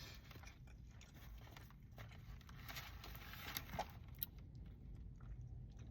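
Faint chewing and small mouth noises of someone eating a wrap, with a few light clicks and a slightly louder stretch a little before the middle, over a low steady hum.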